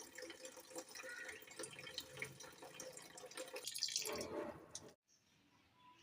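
Water from a tap running and dripping in a sink, with small clicks and clatter, cutting off suddenly about five seconds in.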